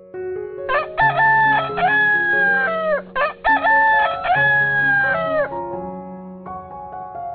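Rooster crowing twice, each crow about two seconds long and dropping in pitch at the end, over soft background music.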